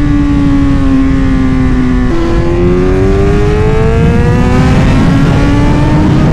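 Kawasaki Z900 inline-four motorcycle engine under way. The revs fall off for about two seconds, then jump with a downshift and climb under acceleration, with an upshift about five seconds in before the revs rise again.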